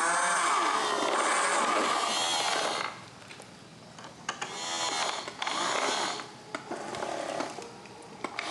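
Small electric motors and gearboxes of radio-controlled model construction machines whining and grinding. They run hard for about three seconds, ease off, then come in several short surges, with the pitch rising and falling as the speed changes.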